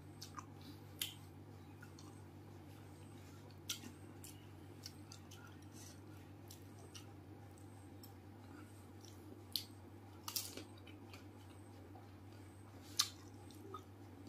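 Pani puri being eaten: scattered sharp crunches of crisp puri shells and wet squishes while chewing, a few seconds apart, the loudest crunch near the end, over a steady low hum.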